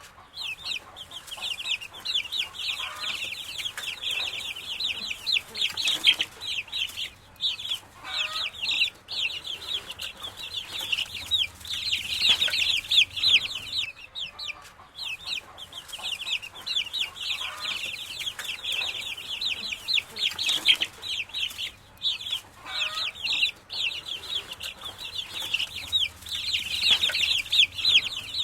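A brood of baby chicks peeping continuously: many rapid, high chirps overlapping, with a few lower calls in between.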